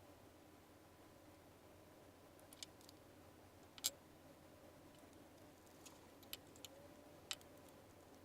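A handful of short, sharp clicks and ticks spaced irregularly over several seconds against near silence: small hard parts being handled.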